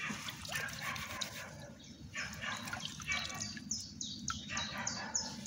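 A songbird sings a run of short, high, falling notes, about three a second, through the second half. Under it is light splashing and dripping as a hand stirs the shallow water.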